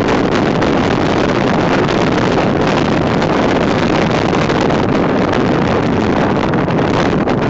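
Strong wind rushing steadily over the microphone, a loud, even noise with no pitch.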